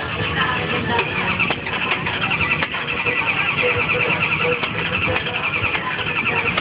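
Hot rod's engine being cranked over by the starter without catching, a steady fast churning the whole time.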